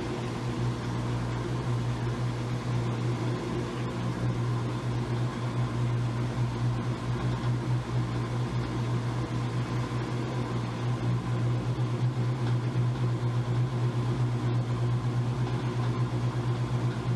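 Washing machine running: a steady electric motor hum with a slightly pulsing loudness.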